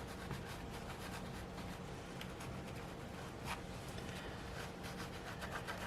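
Faint scratchy rubbing, with small irregular scrapes, as gesso is smudged onto a textured paper journal page, over a low steady hum.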